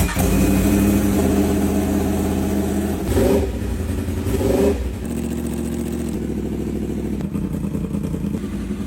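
Motorcycle engine running just after start-up, blipped twice to rise in revs about three and four and a half seconds in, then settling back to a steady idle. The sound cuts off suddenly at the very end.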